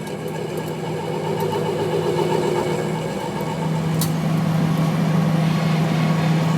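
A steady engine or motor hum that grows steadily louder, with a single sharp click about four seconds in.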